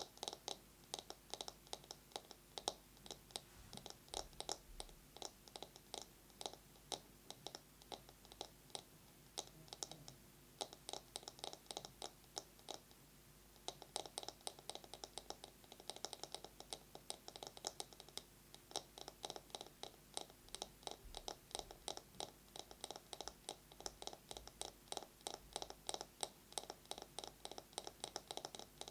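Fast fingernail tapping on a wooden bamboo massage brush: a dense run of quick, crisp clicks, several a second, that thins out briefly about halfway through before picking up again.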